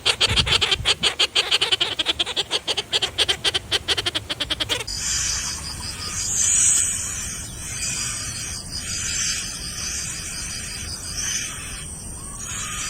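Wild birds calling loudly: a fast rattling series of repeated notes that speeds up and breaks off sharply about five seconds in, followed by a steadier, hissy chatter of calls.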